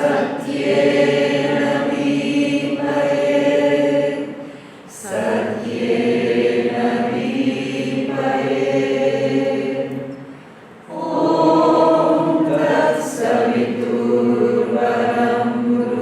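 A group of voices singing long, held chant-like notes in three phrases, with short breaks for breath about four and a half and ten and a half seconds in.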